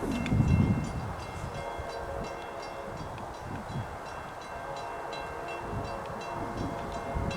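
Passenger train passing on the line: a steady rolling rumble with a faint regular clicking of wheels, and a louder gust of low rumble in the first second.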